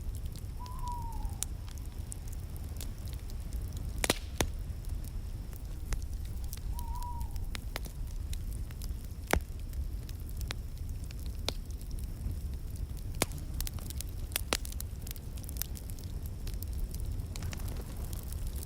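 Wood fire crackling in a fireplace: a steady low rumble of flames under frequent sharp crackles and pops, the loudest about four seconds in. Two short falling whistle-like tones sound about a second in and again around seven seconds.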